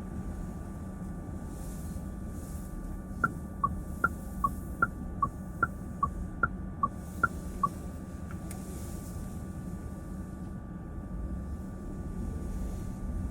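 Low road and tyre rumble inside a car's cabin, with a turn-signal indicator ticking for about four seconds mid-way: twelve ticks alternating a higher and a lower pitch, about two and a half a second.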